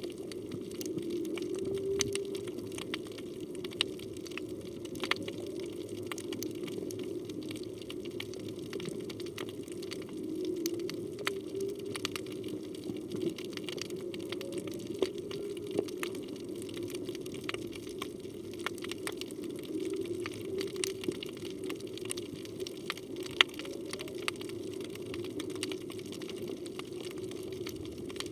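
Underwater reef sound: a continuous low drone with slow, wavering and gliding moans that come and go every several seconds, typical of distant humpback whale song. Scattered sharp clicks crackle throughout.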